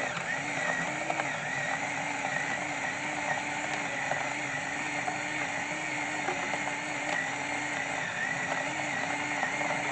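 A steady droning hum with a slightly wavering tone over a constant hiss.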